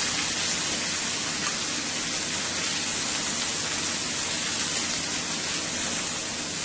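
Chicken breasts sizzling in a hot cast iron skillet, a steady hiss.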